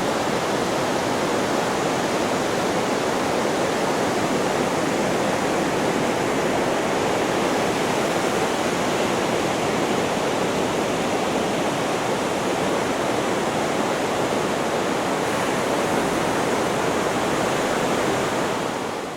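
Steady white-noise track, an even hiss that does not rise and fall like breaking waves. It fades out in the last second.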